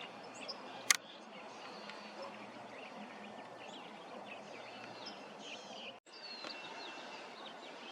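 Faint outdoor ambience with scattered small bird chirps and calls. A sharp click about a second in, and a brief dropout about six seconds in.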